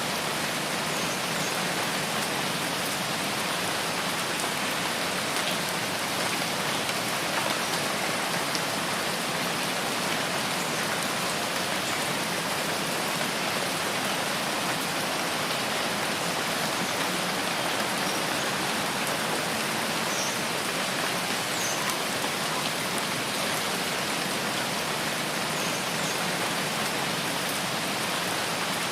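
Steady rainforest rain falling without a break, an even hiss, with a couple of faint high ticks about two-thirds of the way through.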